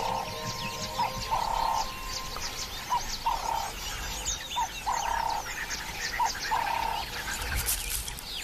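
Birds chirping and twittering, with a short lower call repeated, mostly in pairs, about every second and a half.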